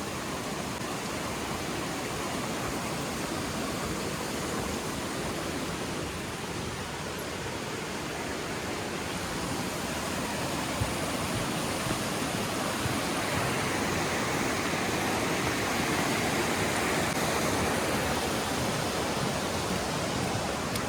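Steady rush of falling water from a nearby waterfall or creek, growing slightly louder over the stretch.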